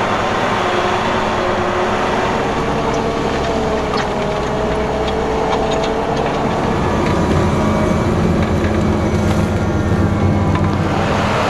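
Fendt 939 Vario tractor's six-cylinder MAN diesel engine running steadily, its pitch drifting a little, with a few faint clicks and rattles partway through.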